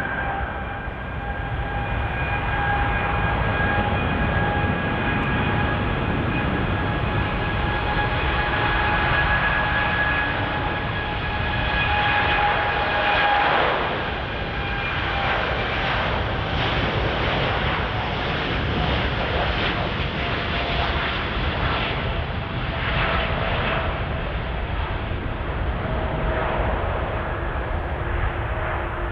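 Jet airliner engines running loudly: a steady deep rumble with several high whining tones, which give way about halfway through to a broader, uneven noise.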